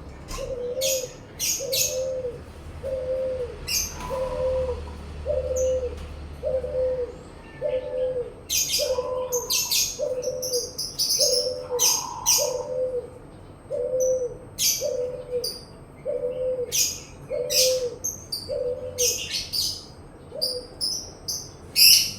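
Barbary dove (burung puter) cooing in a steady series of short, falling coos, about one a second, that stops a couple of seconds before the end. Small birds chirp sharply at a much higher pitch over the cooing, more often in the second half.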